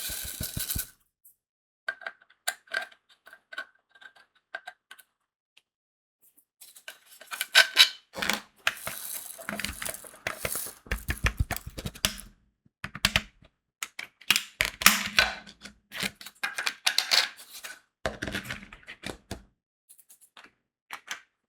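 Crystal diamond-painting beads and tools being handled, making small sharp clicks and rattles. A few light clicks come first, then denser bursts of clicking with a few soft thumps.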